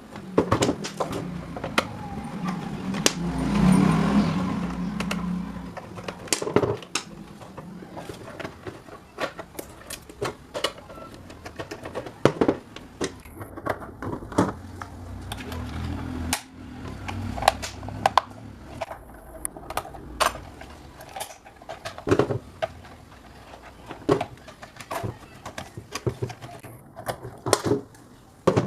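Irregular clicks and knocks of small metal fan parts and tools being handled, with a louder stretch of scraping about three to five seconds in.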